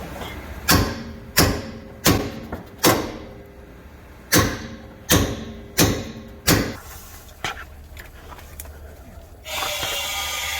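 Hammer blows on a rear shock bolt that is jammed in place: eight sharp strikes in two runs of four, about 0.7 s apart, then three lighter taps. A steady mechanical noise starts near the end.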